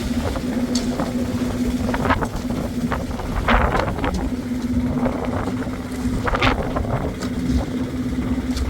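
An engine running steadily at an even pitch, with a few short scrapes and knocks over it, about two, three and a half and six and a half seconds in.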